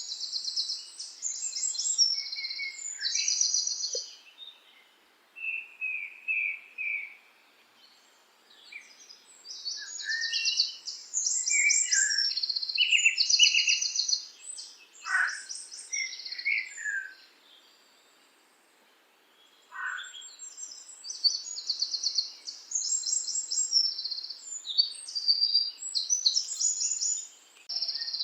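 Songbirds singing: phrases of rapid, high-pitched chirping trills a few seconds long, separated by short pauses, with a few lower chirps between them.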